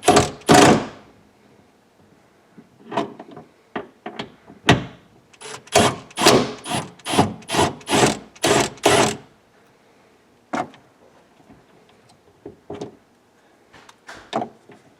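Socket ratchet being worked in short strokes to loosen a bolt: a burst of clicks at each swing, with scattered knocks. A quick run of about eight strokes, some two a second, comes in the middle.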